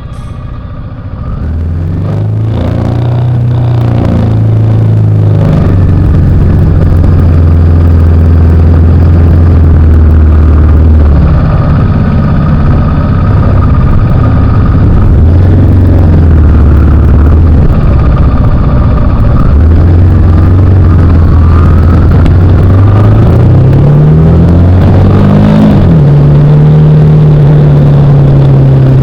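Honda Transalp XL700 motorcycle's V-twin engine running on the road, picked up close by a camera mounted on the bike's front under the headlight. Its pitch holds steady at a few levels and steps between them; near the end the engine revs up, the pitch rising quickly.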